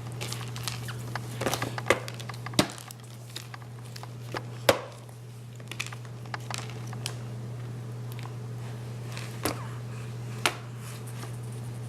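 Scattered light taps and clicks, with a few sharper knocks, from a baby handling puff snacks, over a steady low hum.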